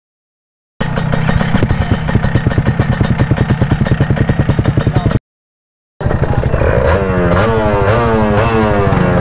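Kawasaki KRR150's two-stroke single-cylinder engine idling with a fast pulsing beat. After a short break, the throttle is blipped again and again, so the pitch rises and falls in quick waves.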